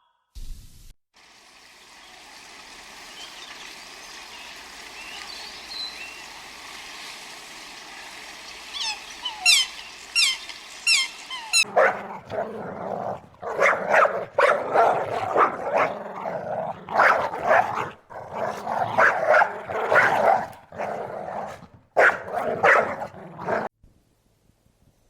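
A dog barking repeatedly, loud short barks coming in quick succession through the second half, after a stretch of steady background noise with a few short high chirps.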